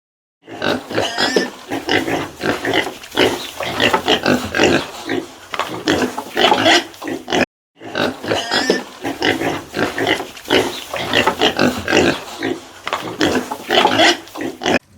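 Pigs grunting rapidly and irregularly, with a brief cut to silence about halfway through.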